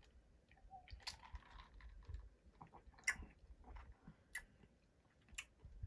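Faint mouth sounds of someone sipping and swallowing soda: a soft slurp followed by scattered wet clicks and smacks.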